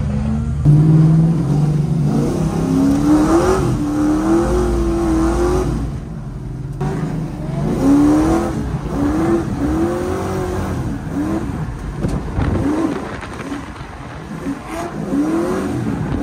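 Drift car's engine revving hard and repeatedly, its pitch rising and falling in quick arcs over and over as the car is driven sideways, with a steady rush of tyre and road noise underneath.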